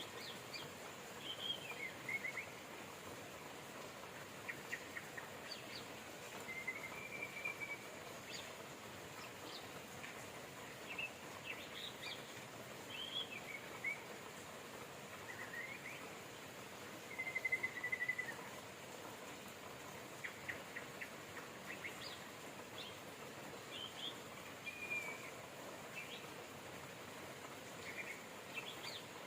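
Steady hiss of rain with songbirds chirping and whistling short phrases on and off throughout, the loudest burst of calls a little past the middle.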